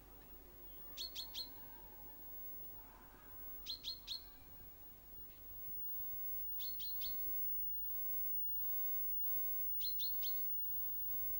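A small songbird calling in quick sets of three sharp, high chirps, four sets a few seconds apart, with fainter birdsong behind.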